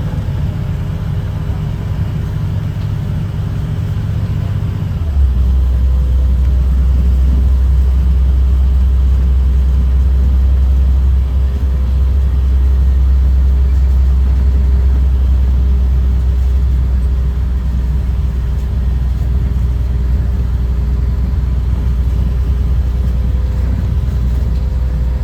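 School bus's Caterpillar C7 inline-six diesel droning steadily, heard from inside the bus while driving. About five seconds in the drone drops to a deeper, slightly louder tone and holds there.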